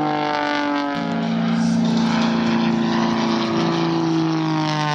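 Propeller aircraft engine running through an aerobatic pass, its pitch slowly falling as it goes by, mixed with music from the airshow loudspeakers.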